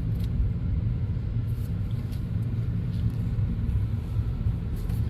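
Steady low rumble of a Toyota Corolla on the move, its road and engine noise heard from inside the cabin.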